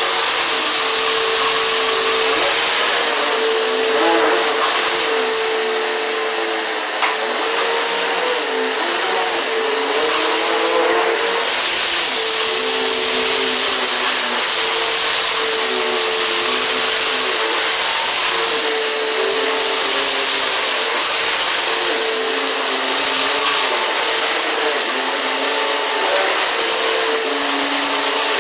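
Eureka PowerSpeed upright vacuum cleaner running steadily with a high motor whine, its lower hum shifting in pitch every second or two as it is worked over the floor.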